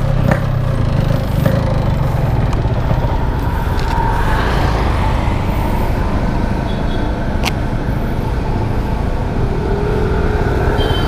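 Yamaha RX-King 135 cc two-stroke motorcycle engine running steadily, without revving.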